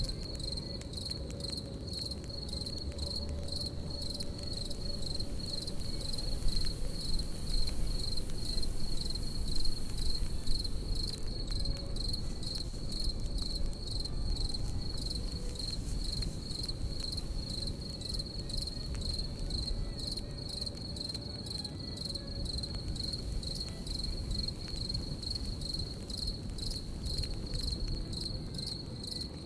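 Crickets chirping in a steady, fast-pulsing high trill over the low hiss and crackle of a campfire, with a few louder pops around a quarter of the way in.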